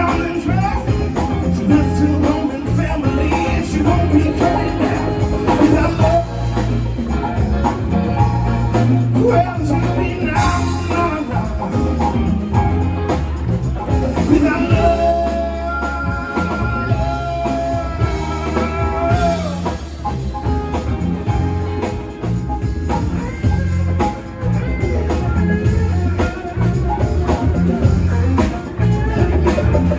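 A rock band playing live: guitar over bass and drums, with some singing, mid-song.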